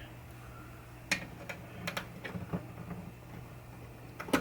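Irregular light clicks, several a second starting about a second in, from a 5/16 tool tightening nuts on a pinball pop bumper assembly, over a steady low hum.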